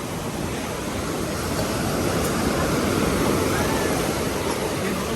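Ocean surf: a wave breaking and washing in, swelling to a peak about three seconds in and easing off.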